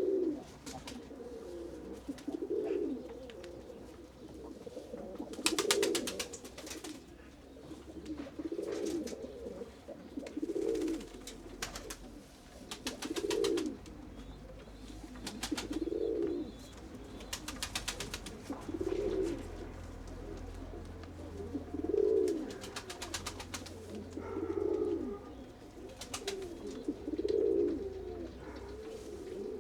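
Domestic pigeons cooing over and over, a low coo about every two to three seconds. A few short bursts of rapid clatter come in between.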